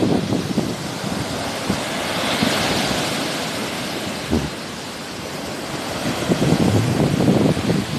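Sea waves washing ashore, with wind buffeting the microphone in low rumbling gusts. The hiss of a wave swells about two seconds in, and the wind gusts pick up again near the end.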